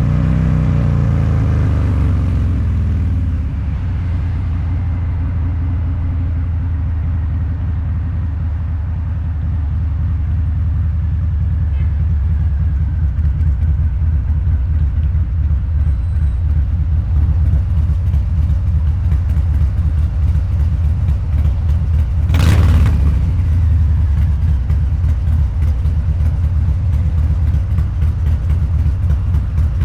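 Harley-Davidson Low Rider's 129 ci V-twin through a Two Brothers Racing exhaust: revs falling at the start as the throttle is closed, then running steadily at low revs. There is a short loud burst of noise about two-thirds of the way in.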